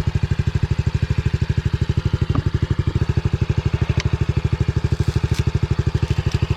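Pit bike's single-cylinder engine idling steadily, an even, rapid putt-putt.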